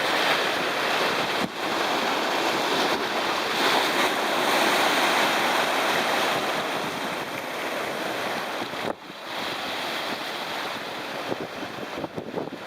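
Sea surf breaking and washing on the shore, a steady rush that eases after about nine seconds, with wind gusting on the microphone.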